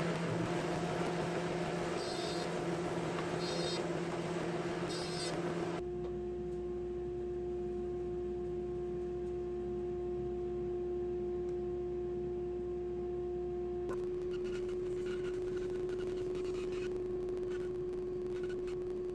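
A machine running with a steady hum, joined by a hiss of noise in the first few seconds.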